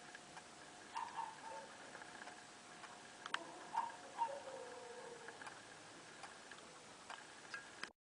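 Faint scattered clicks and light taps, with a few short squeaky chirps, over a steady faint hum; the sound cuts off abruptly near the end.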